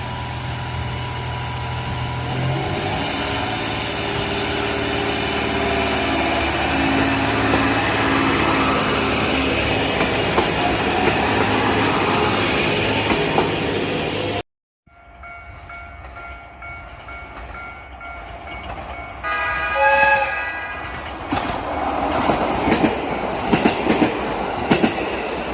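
JR Hokkaido H100 diesel-electric railcar pulling away, its engine and traction note building steadily. After a cut, the train sounds a short horn blast about 20 s in, followed by wheels clattering over rail joints.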